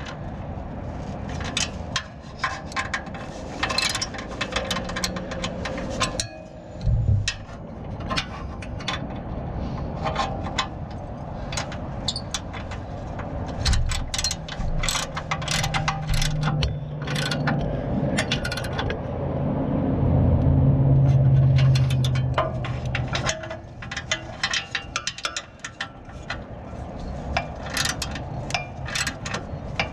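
Metal-on-metal clicking and scraping as a replacement muffler is worked onto a lawn mower's exhaust pipe and tightened. Past the middle a low steady hum comes in for several seconds and is the loudest part.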